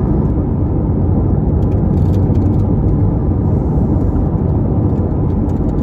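Steady low rumble inside the cabin of a 2023 Chevrolet Corvette C8 Z51 as its 6.2-litre V8 runs, with a few faint clicks.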